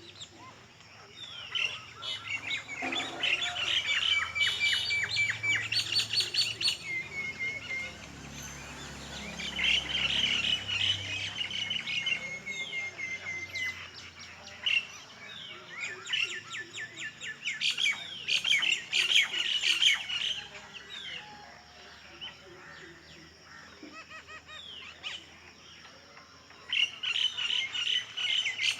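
Several songbirds chirping and trilling in overlapping bouts, with quick repeated notes and short trills that come and go, busier at times and quieter in between.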